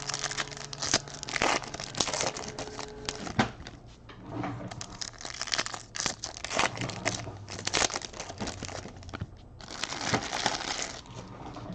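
Plastic trading-card pack wrappers being torn open and crumpled by hand, an irregular crinkling and rustling with louder bursts of tearing.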